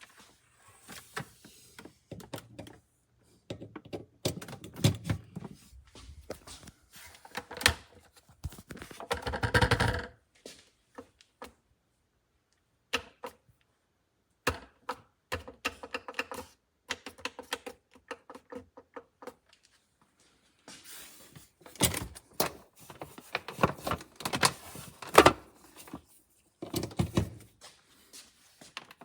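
Irregular plastic clicks and knocks from a Ninja blender's pitcher and lid being handled and set on the motor base, coming in short clattering bursts with pauses between them.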